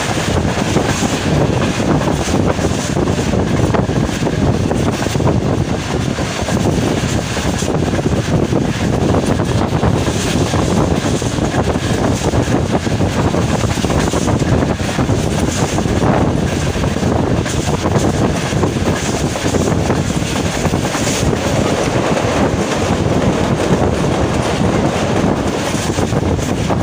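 Jaffar Express passenger train running along the track: a steady, even rumble of wheels on rails.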